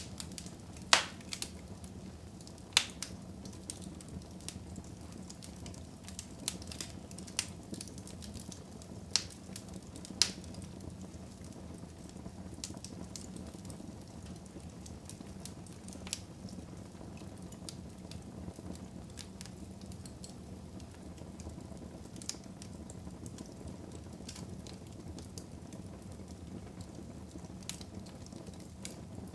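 Wood fire burning in a fireplace: a steady low rumble with sharp crackles and pops, the loudest and most frequent in the first ten seconds or so, sparser after.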